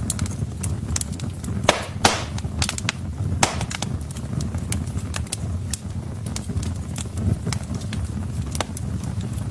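Wood fire burning in a fireplace: a steady low rumble of flames with irregular crackles and snaps from the logs, a few louder pops about two and three and a half seconds in.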